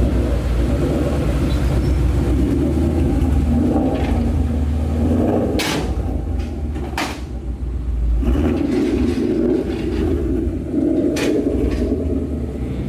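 Car engine running with a steady low rumble, with three sharp clicks or knocks about halfway through and near the end.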